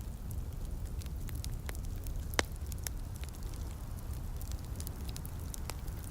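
Wood fire crackling in a fireplace, with scattered sharp pops and one loud pop about two and a half seconds in, over a steady low rumble and light rain.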